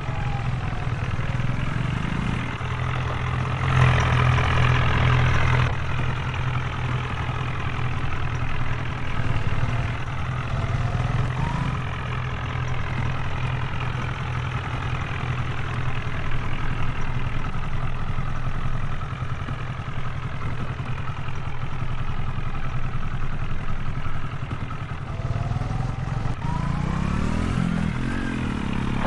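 HMT tractor's diesel engine running steadily, briefly louder about four seconds in and rising in pitch near the end.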